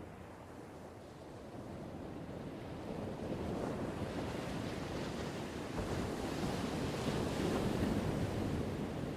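Ocean surf: one wave's rush of water noise building over several seconds to a peak near the end, then starting to ease.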